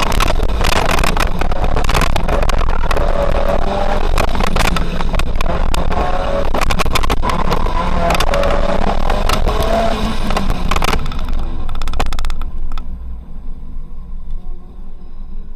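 Autocross car's engine running hard under load, its pitch rising and falling between shifts, with much clatter and rumble. About 12 seconds in the engine drops off sharply and the sound falls much quieter as the car comes off the throttle.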